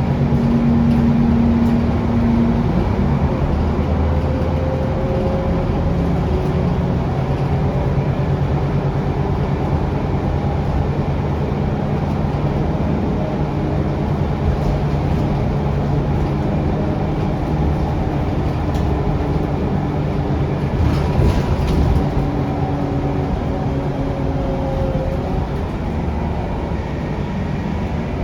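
Scania DC9 five-cylinder diesel engine and ZF Ecolife automatic gearbox of an articulated Scania K360UA city bus, heard from on board while the bus drives. There is a steady low engine drone, and a faint whine rises and falls now and then as the bus pulls away and slows.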